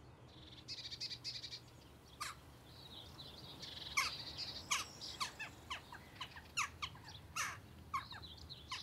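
Wild birds singing and calling: a run of quick, high trills in the first second or so, then many short, sharp chirps that sweep down in pitch.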